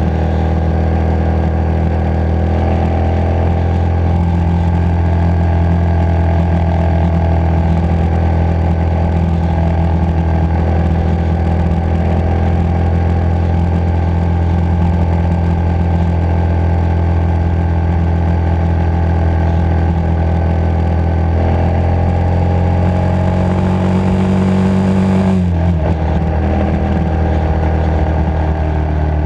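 Motorcycle engine running at a steady cruising speed under way, its note holding one pitch. About 25 seconds in the engine note drops suddenly, then settles again.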